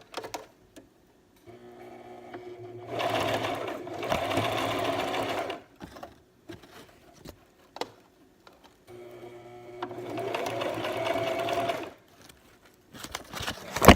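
Electric sewing machine stitching wig wefts with a zigzag stitch, running in two spells of a few seconds each with a pause between. The first spell starts slowly and then picks up speed. A sharp knock comes right at the end.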